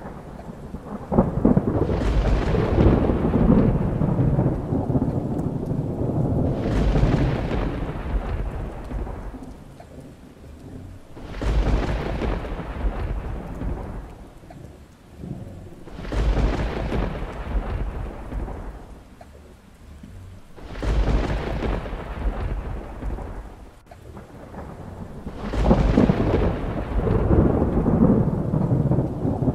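Thunder rolling again and again over steady rain: about six long peals, one every five seconds or so, each swelling up and then fading back into the rain.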